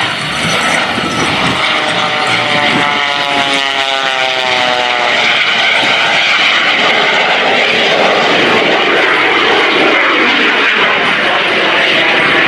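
A modified 1929 Taperwing Waco biplane flying aerobatics: the drone of its radial piston engine over the rushing noise of the jet engine mounted beneath it. The engine's pitch falls between about three and five seconds in as the plane passes.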